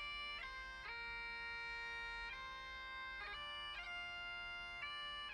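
Faint Highland bagpipe music: a steady drone under a slow chanter melody, with quick grace-note flicks between the held notes.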